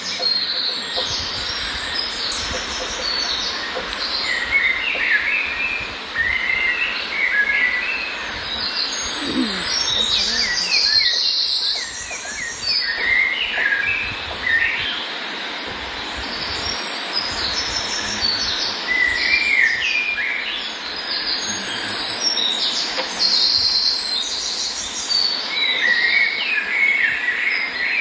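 Songbirds singing in short, quick chirping phrases that recur every few seconds, over a steady high hiss.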